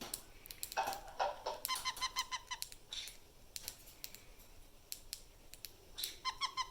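Cockatiel giving runs of short, quick chirps, mixed with sharp clicks. One run comes about a second in and another near the end.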